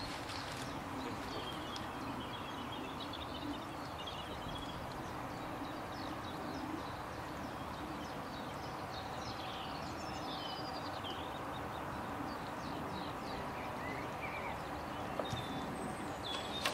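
Small birds chirping and trilling on and off throughout, over steady outdoor background noise.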